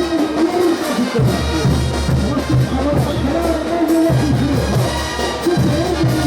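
Bolivian brass band playing a ch'uta dance tune: a sustained brass melody over a pulsing bass line and drums.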